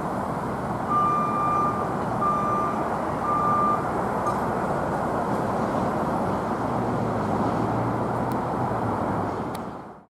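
Steady outdoor rumble with a vehicle's backup alarm beeping three times, about a second apart, in the first few seconds; a low hum joins later, and the sound cuts off suddenly near the end.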